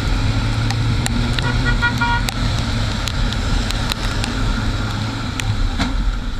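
Vehicle engine running steadily in traffic, with a short horn toot about a second and a half in.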